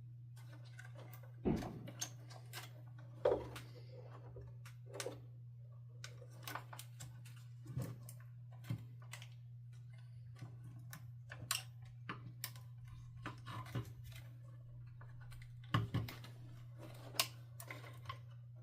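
Irregular clicks, taps and a few louder knocks of hard plastic vacuum-cleaner housing parts being handled and pried apart during disassembly, over a steady low hum.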